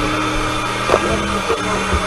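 Dakar rally truck's engine running steadily in the cab after a crash, with one sharp knock about a second in.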